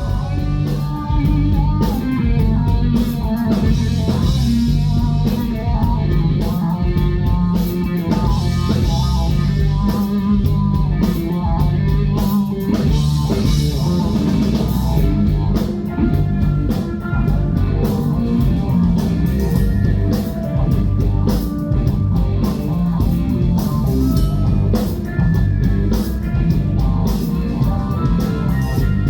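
Rock band playing live, with electric guitar, bass and drum kit.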